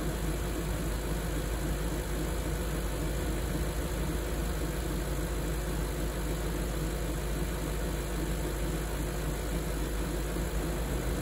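BMW 740i E38's 4.4-litre V8 idling steadily while warming up after a cold start.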